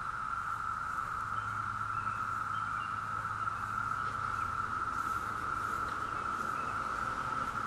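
Chorus of periodical cicadas: a steady, continuous high drone held at one pitch, which the speaker calls a really weird sound.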